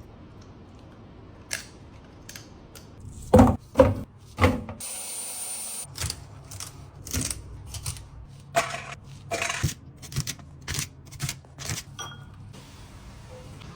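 Kitchen prep handling: several loud knocks a little past three and four seconds in, a brief steady hiss about five seconds in, then a run of quicker clicks and knocks.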